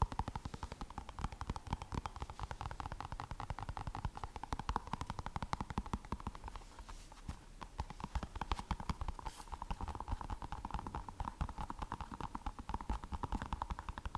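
Rapid, continuous fingertip tapping close to the microphone, several taps a second, easing off for a moment midway.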